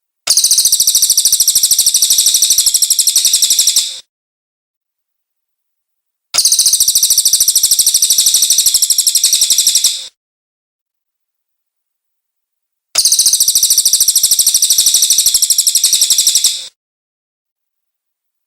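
Cililin bird song: three long, very rapid high-pitched trills, each lasting nearly four seconds and tapering off at its end, separated by silent gaps of two to three seconds.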